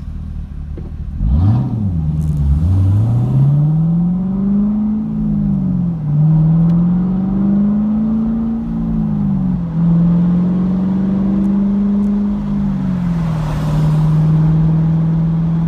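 Chevrolet Camaro SS 1LE's 6.2-litre LS3 V8, its exhaust opened up with an X-pipe and resonator and muffler delete, pulling away and revving up through the gears. The pitch drops back at each of several shifts, then holds steady at a lower cruise near the end.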